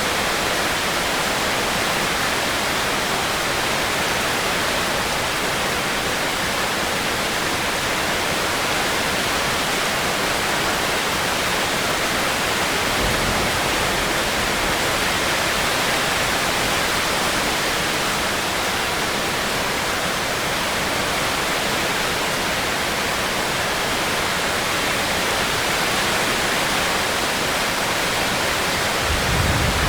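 Steady, even rain hiss of a rainstorm, with a brief low rumble about 13 seconds in and another near the end.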